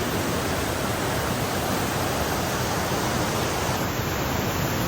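Fast-flowing water rushing steadily, an even noise with no breaks.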